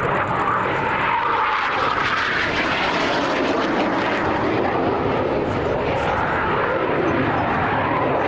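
Airplane engine noise from an aircraft flying a display pass, a loud, steady rush whose pitch drifts slowly as it goes by.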